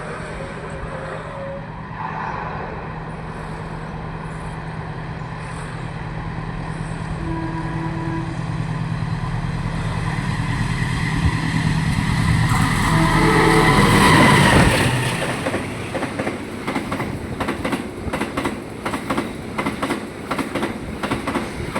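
Passing train: a diesel locomotive's engine drone grows louder as it approaches and passes about two-thirds of the way through, then the carriages go by with a steady rhythmic clacking of wheels over the rail joints.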